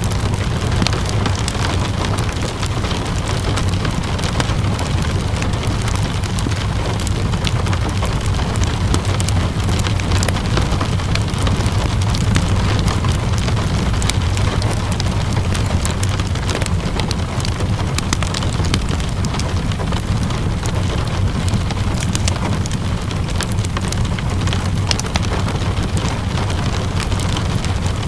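Steady rain with a low rumble beneath it, and frequent sharp crackles and pops from a wood fire.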